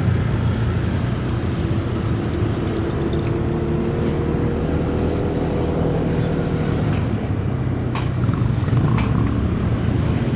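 Motorcycle engine running steadily under way, with road and traffic noise. Two sharp clicks sound about eight and nine seconds in.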